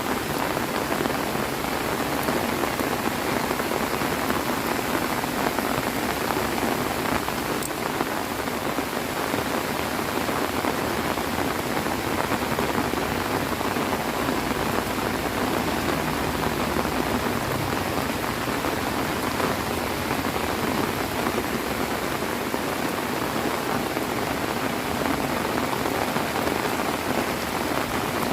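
Heavy rain falling and pattering on surfaces, a steady dense downpour at an even level.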